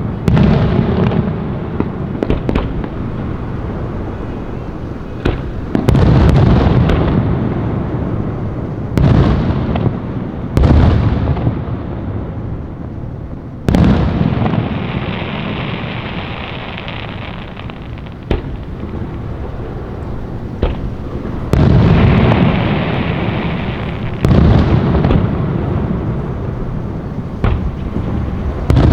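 Fireworks display: about ten aerial shells bursting with loud booms, each trailing off in a long rumble. A stretch of crackling comes about halfway through.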